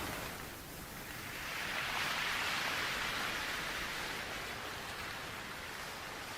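Soothing white noise without melody: a hiss that swells and eases like a slow wave, loudest about two to three seconds in, then settling to a steady hush.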